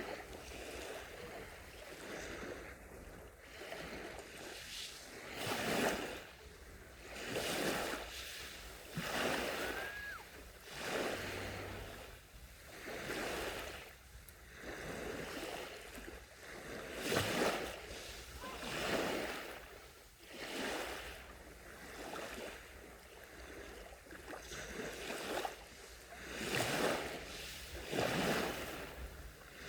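Gentle sea waves washing onto the shore, each one swelling and falling away, one every two seconds or so.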